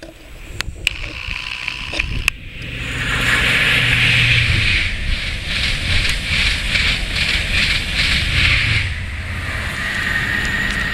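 East Coast High Speed Train, Class 43 diesel power cars with Mark 3 coaches, passing through at speed. The rush of wheels on rail swells about two and a half seconds in, with a rapid rhythmic clatter as the coaches' wheels go by and a low engine drone from the leading power car and then the rear one. It dies away after about nine seconds, with wind on the microphone throughout.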